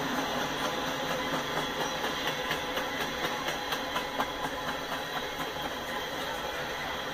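Freight cars (tank cars and covered hoppers) rolling past: a steady rumble of steel wheels on rail, with a run of sharp clacks from the wheels over rail joints in the middle.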